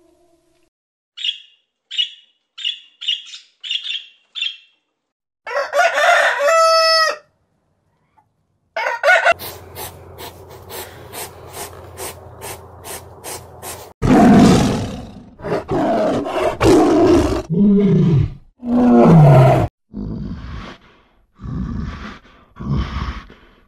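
A run of different animal calls: first a quick series of about seven short, high chirps, then a pitched call with a falling tone about six seconds in. Next comes a stretch of regular clicking, and from about fourteen seconds a series of loud calls with low, bending pitch.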